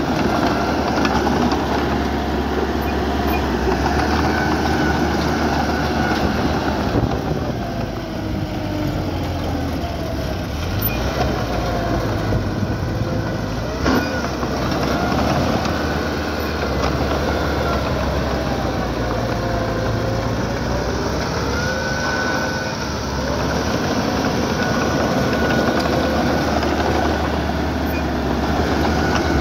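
A small crawler bulldozer working: its diesel engine runs steadily under load while the steel tracks clank and squeal. There is one sharp knock about halfway through.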